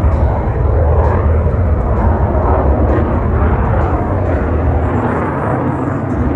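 Jet noise from an F-35A Lightning II's single Pratt & Whitney F135 turbofan: a loud, deep, steady rumble that eases slightly near the end.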